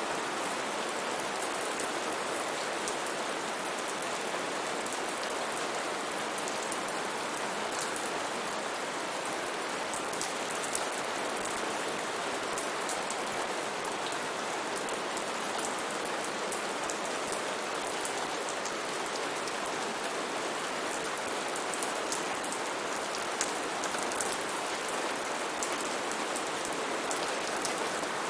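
Steady heavy rain falling on foliage and surfaces, an even hiss with scattered individual drop ticks.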